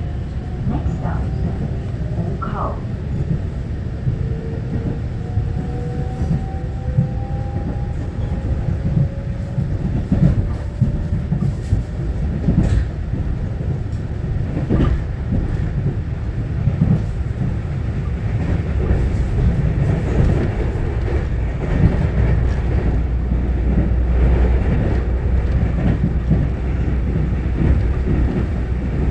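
Taiwan Railway EMU900-series electric commuter train running, heard from inside the car: a steady low rumble of wheels on the track with occasional clacks. A faint rising whine is heard in the first several seconds, and the rumble grows heavier in the last third.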